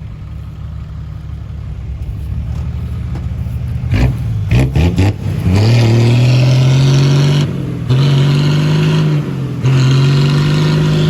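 Dump truck's diesel engine idling, then a few short knocks about four seconds in. It is then revved up and held high three times with brief dips between, as the truck strains, stuck in mud, and fails to climb out.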